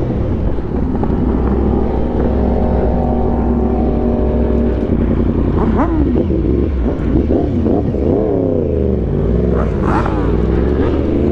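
Sport motorcycle engines. One holds a steady note for about five seconds, then several engines rev up and down over one another.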